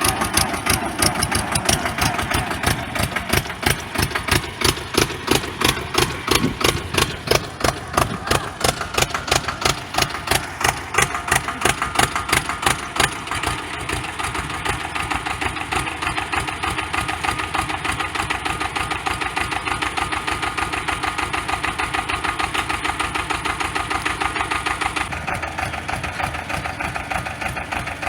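Sonalika DI-30 tractor's diesel engine running, with a heavy, regular beat at first that settles into a more even run about halfway through.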